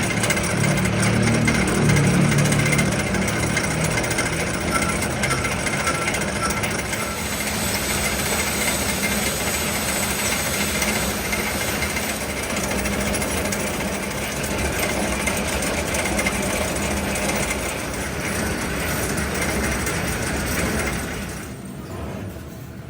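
A power tool running hard with a rapid, continuous hammering, stopping shortly before the end.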